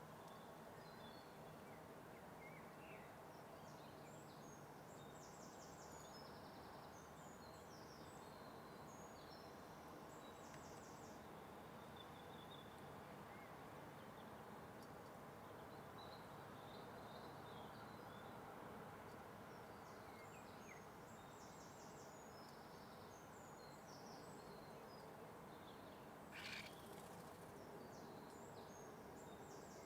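Faint birdsong from small birds, repeated high chirps and trills, over a steady background hiss, with one brief noise about three-quarters of the way through.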